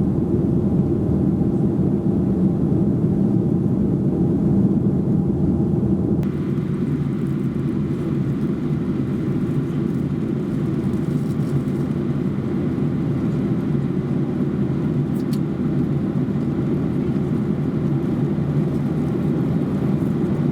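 Cabin noise aboard a Boeing 737-800 in flight: the steady rumble of its CFM56 turbofans and the airflow past the fuselage. About six seconds in, the sound changes abruptly and takes on more hiss.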